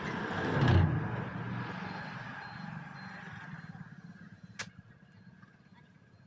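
A motor vehicle passing by, loudest about a second in and then fading away. A single sharp click follows about four and a half seconds in.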